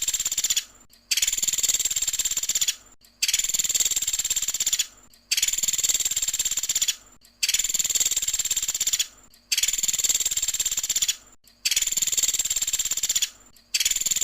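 Pelatuk sampit bird giving its rapid high-pitched trill (the 'tembakan' shot call), repeated over and over: about seven trills, each close to two seconds long with a short pause between.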